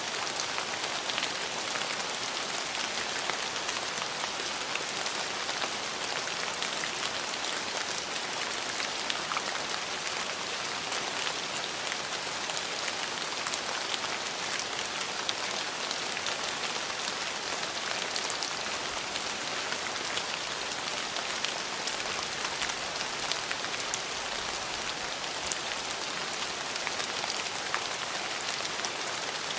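Steady rain falling, an even hiss flecked with many small drop ticks.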